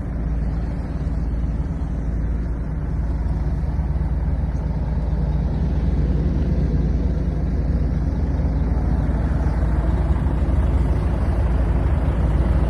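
Volvo FH540 truck's 13-litre six-cylinder diesel engine running steadily, growing a little louder about halfway through.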